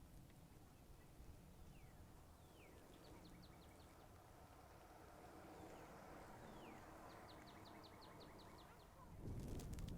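Faint bird calls: a few short descending whistles and two quick rapid trills, over a low outdoor hush. Near the end a louder low rumble comes in.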